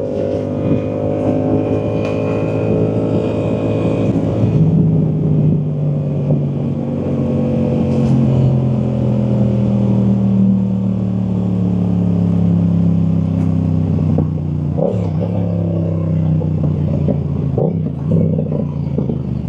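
Yamaha MT-07's 689 cc parallel-twin engine running through a Firetong aftermarket exhaust. The note drops to a lower pitch about four and a half seconds in, then holds and slowly eases down, with a few short sharp cracks from the exhaust in the last few seconds.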